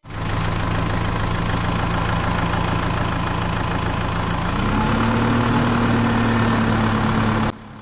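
Tractor engine sound running steadily, its pitch stepping up a little about four and a half seconds in, then cutting off suddenly near the end.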